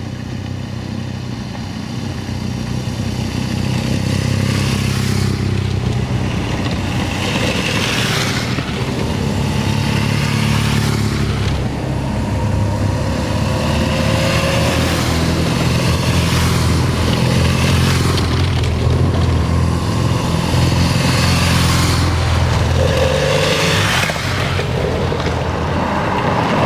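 Motorcycle engine running steadily under way, with a rushing whoosh that swells and fades every second or two.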